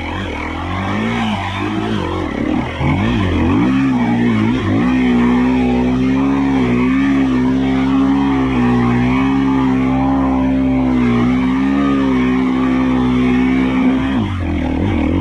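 Dirt bike engine revving, its pitch rising and falling at first, then held at steady high revs for about nine seconds before dropping back near the end.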